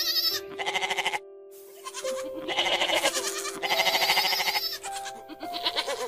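Goats bleating, four or five quavering calls one after another, over soft background music.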